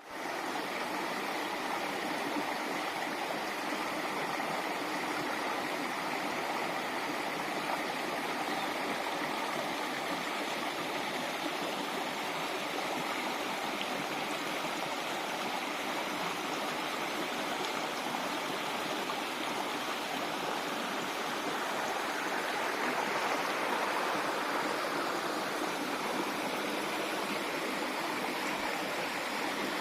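Waterfall: water pouring and splashing in a steady rush, swelling a little a bit past twenty seconds in.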